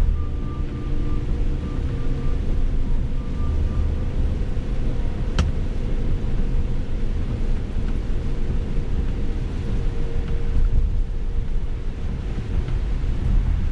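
Car driving, heard from inside: a steady low road and engine rumble, with one sharp click about five seconds in.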